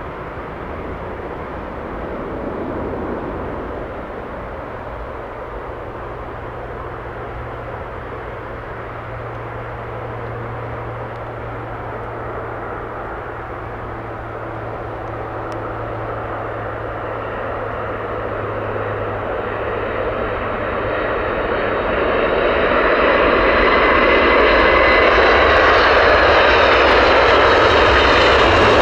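Boeing 777 jet engines running with a steady roar and low hum, growing much louder over the last third as a high engine whine comes in and shifts slightly in pitch.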